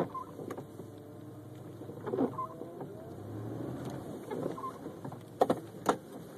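A car's windshield wipers sweeping back and forth: the wiper motor whines with a rising and falling pitch, about once every two seconds. Two sharp knocks come about half a second apart near the end.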